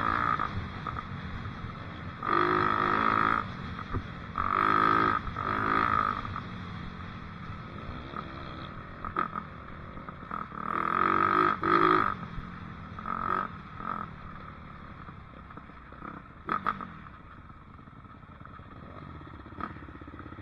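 Dirt bike engine revving in several bursts as the throttle is opened and closed. The revs grow sparser and quieter toward the end, leaving a low steady rumble.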